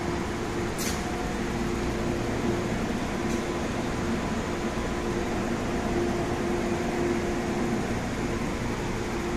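Steady hum and whir of a powered-up MTR A-Train standing at a platform, its air-conditioning and auxiliary equipment running. A steady mid-pitched tone drops out and returns a few times, and a short sharp click comes about a second in.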